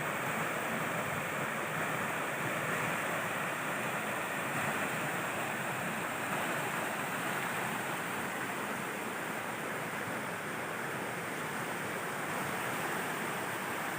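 Steady rush of flowing water, an even hiss that holds the same level throughout.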